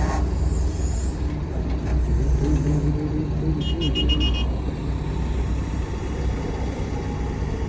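Heavy earthmoving machinery's diesel engines running steadily under load. About four seconds in, there is a short, rapid run of high electronic beeps, like a warning alarm.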